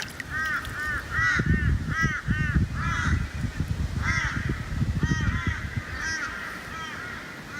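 Several crows cawing over and over, in quick runs of short, arched caws.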